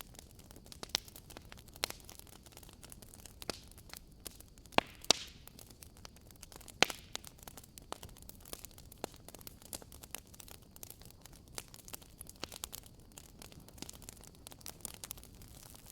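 Wood fire crackling: irregular sharp pops and snaps, a few much louder than the rest, over a steady low hiss.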